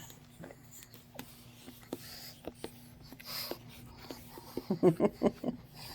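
Pug puppies making a quick run of short, pitched whimpers and grunts about five seconds in, over scattered light clicks and a faint steady hum.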